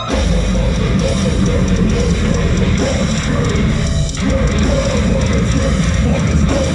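Live heavy metal band playing loud, with distorted guitars and drum kit crashing in together at the start after a clean plucked intro. The dense wall of sound breaks off for a moment about four seconds in and then resumes.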